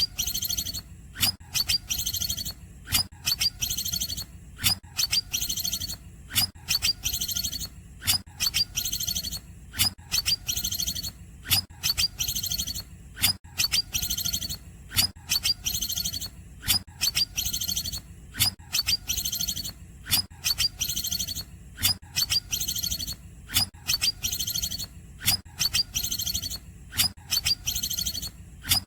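Cucak ijo (green leafbird) singing cungkokan-style song: short, quick, high chirping phrases, each opening with a sharp note, repeated over and over about once a second, over a faint low hum.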